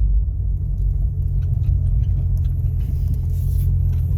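Jeep being driven, a steady low rumble of engine and road noise heard from inside the cabin, with a few faint ticks over it.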